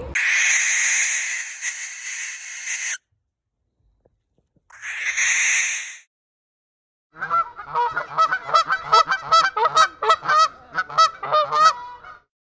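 Two bursts of hissing noise, then about five seconds of loud, rapidly repeated pitched animal calls.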